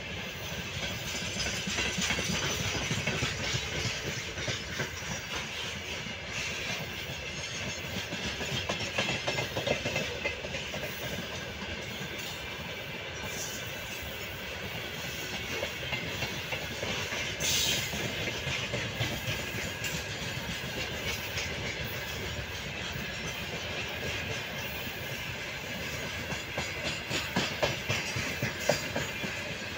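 Open-top freight wagons (gondolas) rolling past, their wheels clattering over the rail joints in an uneven clickety-clack over a steady rumble, with a brief high hiss a little past halfway.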